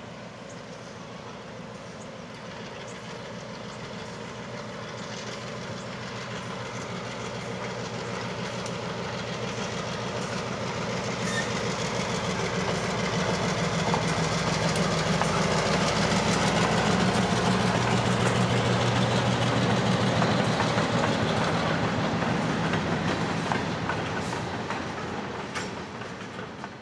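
Diesel switcher locomotive, an EMD SW1500, passing at low speed with a local freight. Its engine hum grows steadily as it approaches, is loudest from about halfway through, and fades as the freight cars roll by with wheel clatter and sharp clicks over the rail joints.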